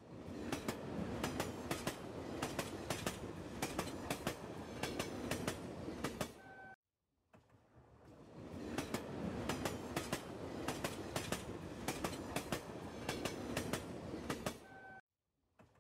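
Train wheels clattering over the rails: a steady rumble with many sharp irregular clicks. The sound cuts off abruptly about seven seconds in, falls silent for a moment, then fades back in with the same pattern, as if looped.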